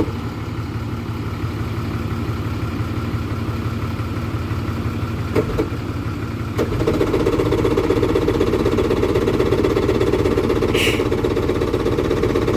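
Yamaha two-stroke jet ski engine running steadily just after starting from storage, out of the water. About six and a half seconds in it gets louder and stays at the higher level.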